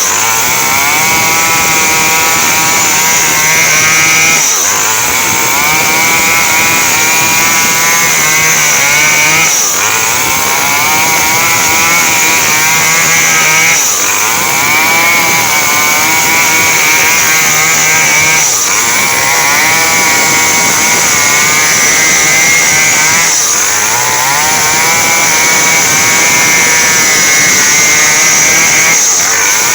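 Small two-stroke chainsaw running at high revs, sawing coconut-palm wood. Its engine pitch dips sharply and recovers about every five seconds as the chain bites under load.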